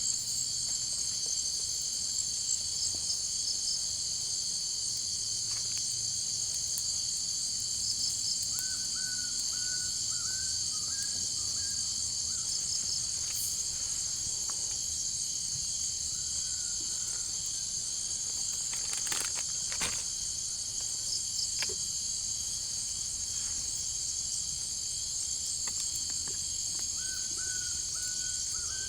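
Jungle insect chorus, a steady high-pitched shrilling in two layers. A short series of chirping notes comes three times, and a couple of sharp knocks sound about two-thirds of the way through.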